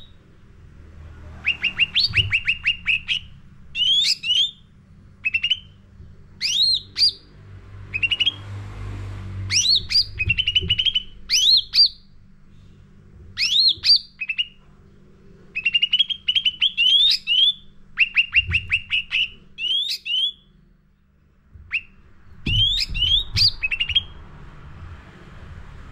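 Cucak ranting songbird singing in quick, varied phrases of about a second each, with short gaps between them. The phrases are rapid runs of short falling chirps and sharply rising whistled notes, and the song is full of borrowed phrases ('isian full'). A faint low hum runs underneath.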